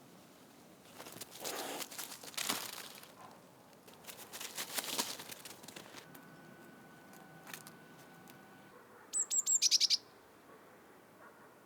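Two bursts of rustling in the first half, then, about three-quarters of the way through, a small songbird gives a quick run of about eight high chirps, each sliding down in pitch; the chirps are the loudest sound.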